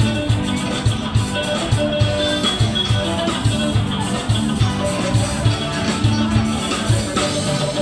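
Live band playing joget gambus dance music: plucked strings over a steady, regular drum beat.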